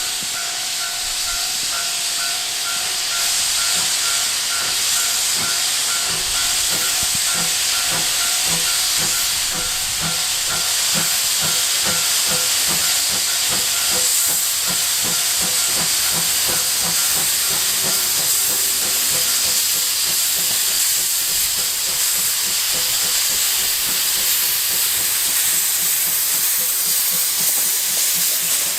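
Steam locomotive C12 66 pulling away from a station with its drain cocks open: a loud, steady hiss of steam over a regular chuffing exhaust beat. The heavy drain steam comes from the cold, wet weather.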